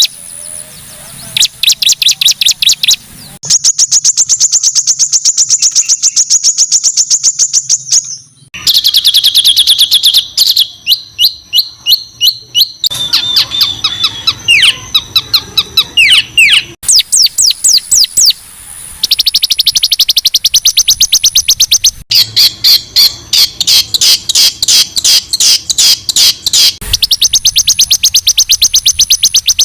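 Songbird song made of rapid trains of high, harsh repeated notes, many to the second. The phrases change abruptly every few seconds, with a brief gap about eight seconds in.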